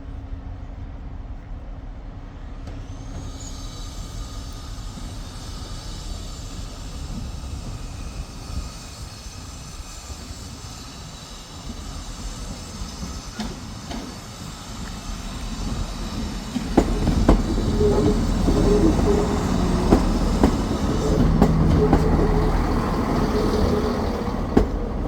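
A train running along the line: at first a steady rumble with a thin high-pitched whine, then much louder from about two-thirds of the way in, with wheels clicking over rail joints and a steady engine drone as it comes close.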